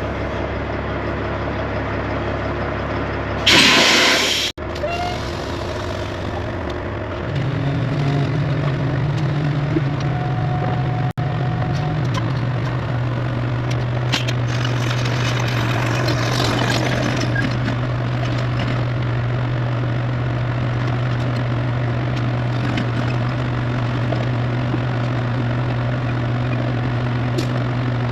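Heavy diesel engine running steadily, with a loud hiss of released air about three and a half seconds in that lasts about a second. About seven seconds in, the engine note rises a little and then holds steady.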